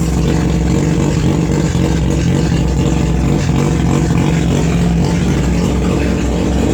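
Formula Mazda race car's 1.3-litre 13B Wankel rotary engine idling steadily.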